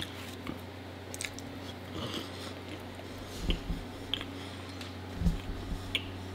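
Close-miked chewing of raw honeycomb: sticky, wet mouth clicks and smacks scattered through, with two louder low thuds about three and a half and five seconds in.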